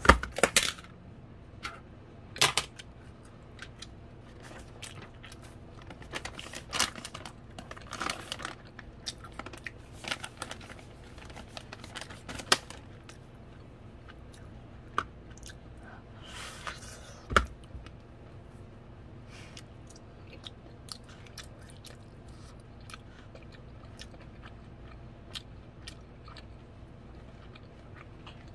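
Close-up chewing and biting of boiled waxy corn kernels: irregular wet crunches and mouth smacks. They are loudest and most frequent in the first half, and fainter and sparser later.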